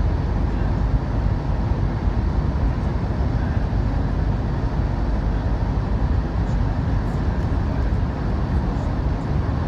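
CRH6A electric multiple unit running along the line: a steady low rumble of running noise that holds even throughout.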